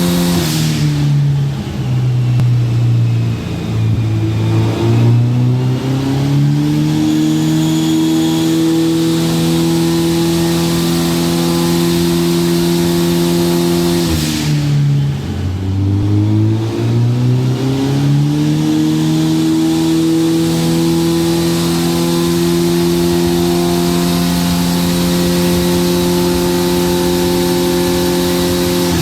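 Nissan 280ZX's turbocharged FJ20ET four-cylinder engine under load on a chassis dyno: the revs drop about a second in, climb back and hold steady, then drop and climb again about halfway through and hold steady.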